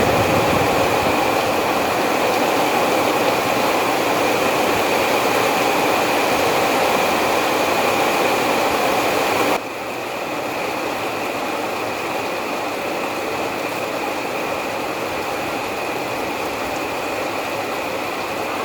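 Heavy rain falling as a steady hiss; about halfway through it drops suddenly to a quieter, duller rush.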